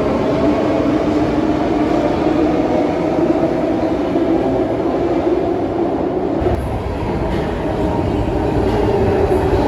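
Electric suburban train running, a steady rumble that grows heavier in the low end about six and a half seconds in.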